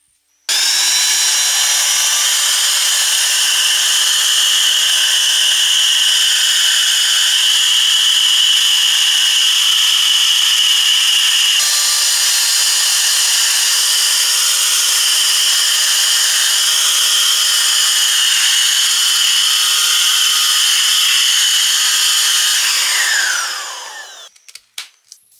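Small 12 V vacuum-cleaner motor and fan in a homemade PVC-pipe cleaner switched on, running with a steady high whine, then switched off near the end and spinning down with a falling pitch.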